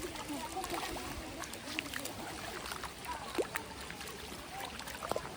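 Waterfall water running and splashing in a steady rush, with scattered splashes and faint distant voices.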